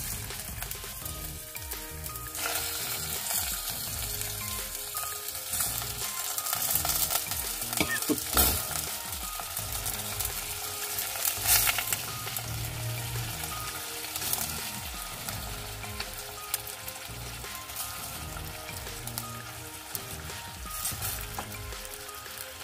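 Raw chicken livers sizzling and spitting as they are added to hot oil in a pot. A couple of louder spits come about eight and eleven seconds in.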